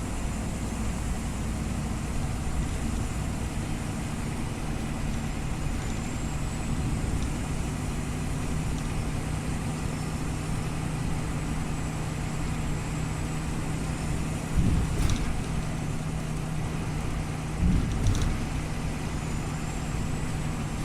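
Scania OmniLink CL94UB city bus running steadily, its engine hum even, with a faint high whine drifting up and down in pitch. There are two brief bursts of knocking, about fifteen and eighteen seconds in.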